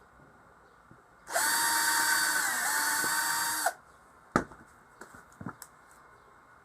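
A power drill runs at speed for about two and a half seconds, a steady whine over a hiss, its pitch sagging briefly midway as it takes load in the work. A few sharp clicks and a knock follow after it stops.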